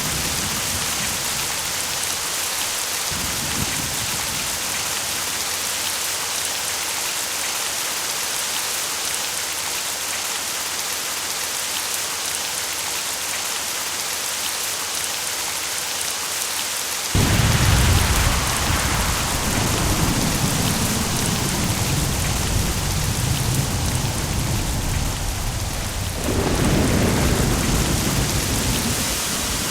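Steady heavy rain hissing throughout. A loud thunderclap breaks a little over halfway through and rolls on as a long low rumble, and a second peal of thunder rumbles in near the end.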